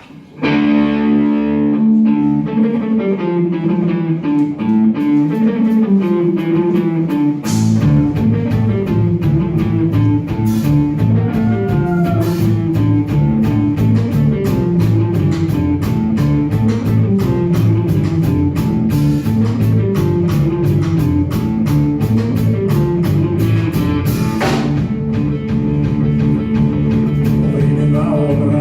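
Live rock band playing an instrumental intro. Guitar opens alone, and the drums and bass come in about seven and a half seconds in, giving a steady beat.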